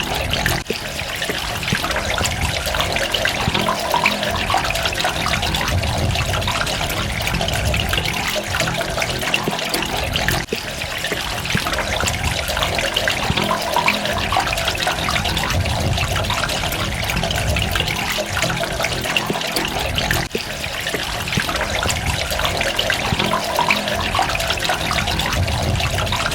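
Water trickling and splashing steadily, full of small drips and droplets. The same stretch repeats about every ten seconds, as a loop.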